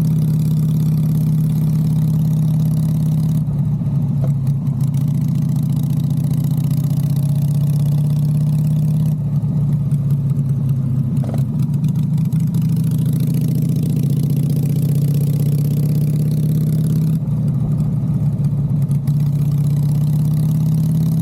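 Harley-Davidson V-twin motorcycle engine running at a steady pace, its low note holding one pitch throughout.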